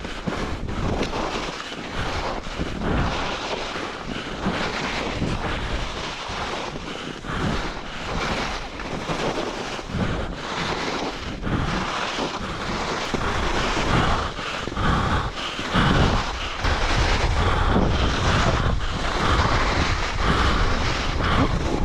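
Wind buffeting the microphone: a loud, gusty rushing that surges and eases, heaviest in the low end.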